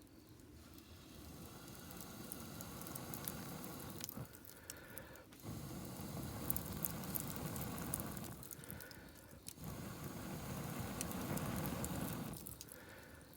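Wood campfire burning, crackling with small sharp pops. A low rushing sound swells and eases about three times.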